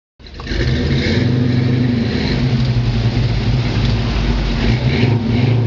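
Classic car's engine running steadily as the car drives slowly past, a deep even hum.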